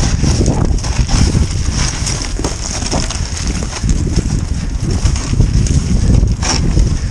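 Irregular crunching and knocking in snow, over a steady low rumble.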